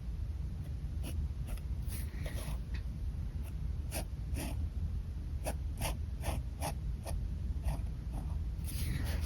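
A pen scratching on paper in many short, irregular sketching strokes, a few of them drawn out longer.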